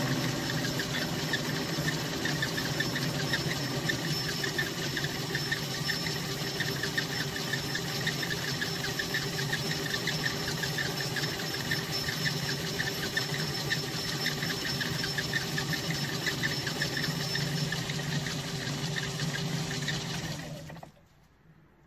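Metal lathe running steadily through a light finishing cut, the cutting tool chattering against the workpiece. The lathe then stops near the end.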